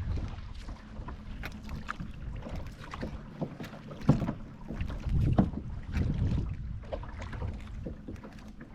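Kayak paddling: paddle strokes splashing and dripping, with scattered small knocks against the boat and a low wind rumble on the microphone. The loudest splashes come about four and five and a half seconds in.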